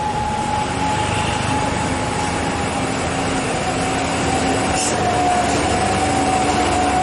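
Dump truck engine pulling hard under full throttle on a steep climb. A steady whine runs through it and slowly falls in pitch.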